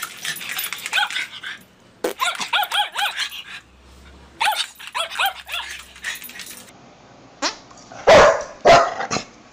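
Small Chihuahua-type dog barking rapidly in high-pitched yaps, in three quick runs with short pauses between. Near the end come three or four louder, deeper sharp sounds.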